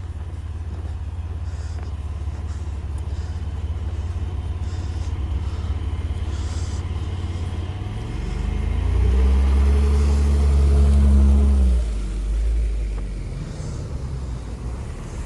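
Steady low rumble of street traffic, then a motor vehicle's engine grows loud about eight seconds in as it passes close, and fades after a few seconds.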